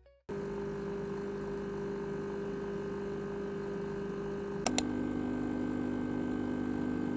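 A steady mechanical hum from a household appliance motor. Two clicks come about two-thirds of the way through, and the hum then carries on at a lower pitch.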